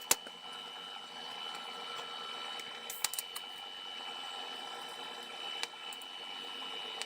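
DC TIG welding arc at about 50 amps on an AC/DC inverter TIG welder, brazing with silicon bronze filler rod: a steady hiss with a constant high whine, and a few sharp clicks along the way.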